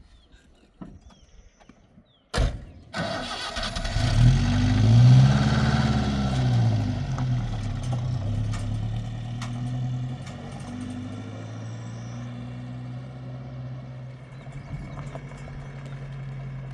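A motor vehicle's engine starting about two seconds in, revving up and down a few times, then settling into a steady idle.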